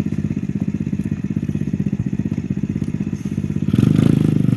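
Small ATV's 125cc single-cylinder four-stroke engine running at idle with a rapid, steady putter, getting louder for about a second near the end.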